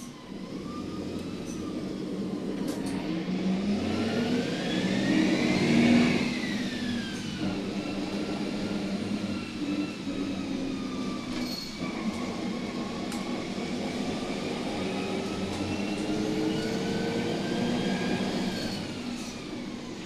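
A vehicle running, with a whine that rises in pitch, peaks about six seconds in, falls, then rises again over a steady rumble.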